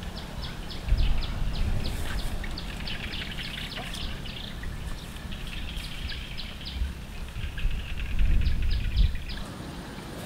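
Small birds chirping in quick runs of short, high, repeated notes. Under them come bursts of low rumble, loudest about a second in and again around eight to nine seconds.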